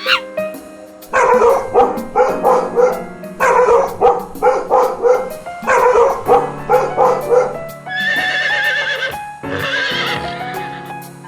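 Repeated loud, quavering animal calls in trembling series over background music, followed by two longer wavering calls near the end.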